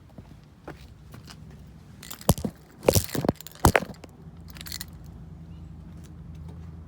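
6.7 L Cummins diesel idling with a steady low hum, while a handful of loud sharp knocks and clicks come over about two seconds near the middle; after them the engine note grows a little louder.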